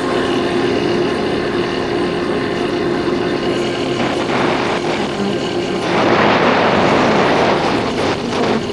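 Yamaha Factor 150's single-cylinder four-stroke engine running steadily while riding. From about four seconds in, a rushing noise builds; it is loudest from about six seconds until just before the end, and then drops away.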